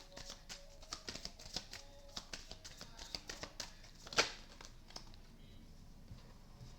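Tarot cards being handled: a run of quick, soft clicks and taps, with one sharper snap about four seconds in, then quieter.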